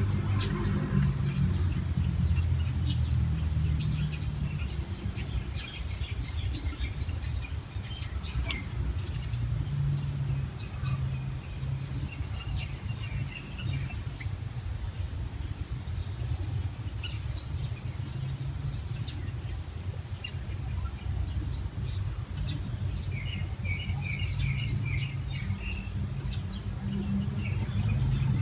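Small birds chirping on and off, with a brief run of quick chirps near the end, over a steady low rumble.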